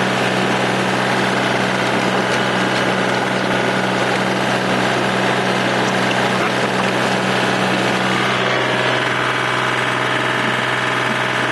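Engine-driven snowblower running steadily while blowing snow: a steady engine hum under a dense rushing noise. The engine note shifts slightly about eight seconds in.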